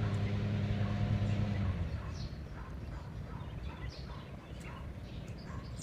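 A steady low droning hum that cuts out about two seconds in, leaving faint outdoor background with a few short, high bird chirps.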